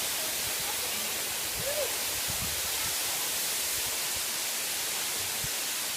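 Steady rushing hiss of a nearby waterfall.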